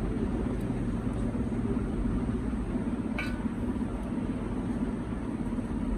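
Steady low hum with a single short click about three seconds in.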